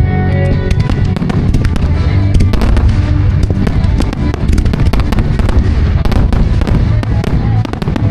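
Fireworks going off in rapid succession, many sharp cracks and bangs packed closely together, with music playing underneath.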